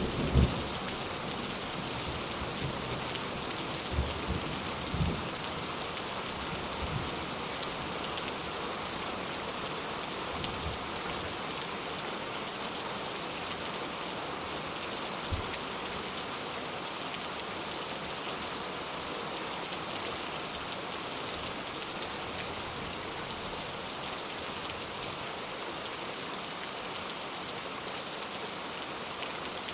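Steady rain falling, an even hiss of many drops. There are a few short low thuds in the first five seconds and one more about a quarter of the way in, likely the tail of thunder.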